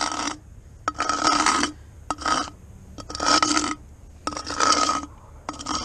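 A shoe sole scraping back and forth across a thin, slick layer of fresh snow over pavement, in rasping strokes of about one a second.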